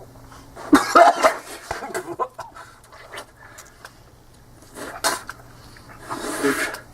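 People gagging and coughing as they gulp a foul blended drink. A loud burst comes about a second in, and a longer one near the end.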